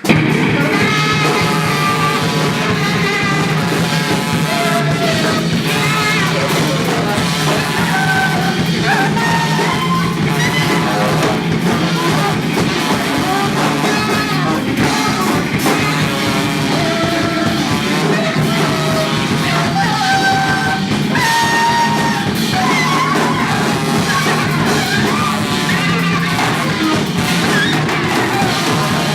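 Free jazz quartet kicking in loud and dense all at once: wailing, bending tenor saxophone and trombone lines over a thick rhythm section with drum kit.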